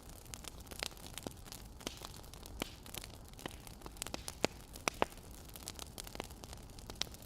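Burning firewood crackling, with irregular sharp pops over a steady low hiss.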